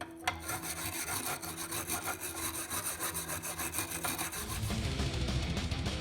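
Fast back-and-forth rubbing strokes against a hard surface, several a second, like scrubbing or abrading a part. A deeper rubbing sound joins about four seconds in.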